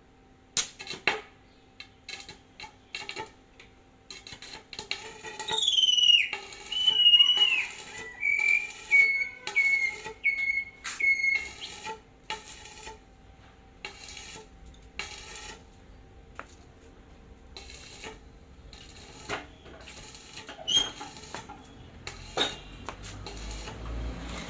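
Metal parts and tools clicking and knocking during hand-pallet-truck hydraulic pump repair. About five seconds in, a high whistling squeal glides downward and then breaks into a run of short pulses, stopping at about the halfway point.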